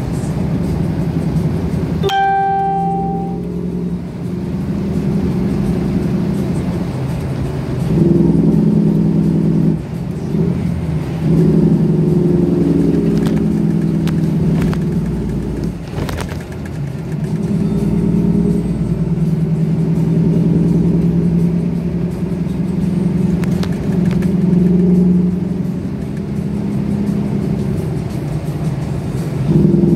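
Cummins diesel engine in a semi truck running under load, its drone swelling as it pulls and dropping away every few seconds as the rig goes through the gears. A brief high tone sounds about two seconds in.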